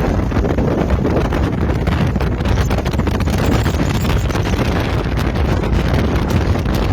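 Strong gusting wind buffeting the microphone in a storm, a loud, steady low rumble with constant rapid fluttering.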